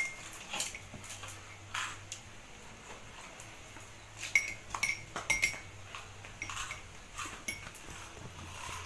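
Metal spoon clinking against a ceramic mug and glass dishes during eating, a handful of scattered sharp clinks that ring briefly, with a cluster of them about four to five seconds in. Softer mouth sounds of chewing and sipping come in between.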